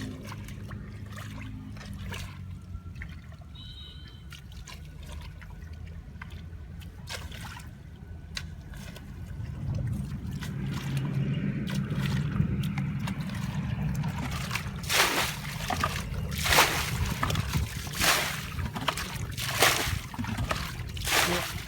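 Shallow water sloshing and trickling as it is stirred by hand. About halfway through it grows louder into a run of splashes, about one every second and a half.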